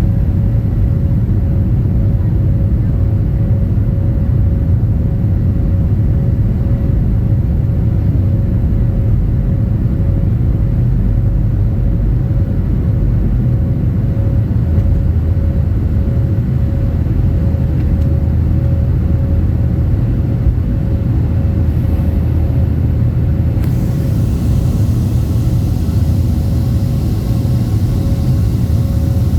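Boeing 737 jet engines heard from inside the passenger cabin during takeoff: a loud, steady rumble with a steady whine over it. About twenty-four seconds in, a brighter hiss joins it.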